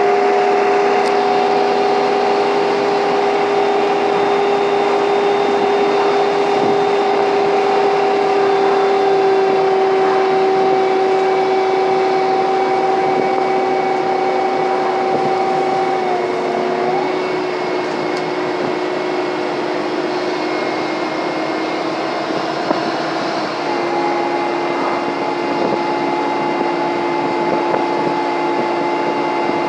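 Scania N230UD double-decker bus running under load, with the strong 'hoover' whine and engine thrash heard from on board. The whine is a steady two-tone sound whose pitch sags slightly, dips briefly about 16 seconds in, then steps back up about 24 seconds in.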